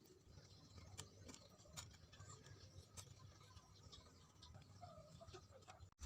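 Near silence: faint scattered clicks and ticks over a low hum.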